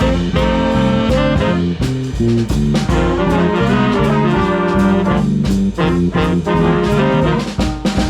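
Swing band playing: brass and saxophones in held, shifting chords over a steady drum beat.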